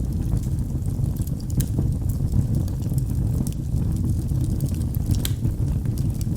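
Wood fire in a fireplace crackling: scattered sharp pops and snaps over a steady low rumble of burning, with a louder pop about five seconds in.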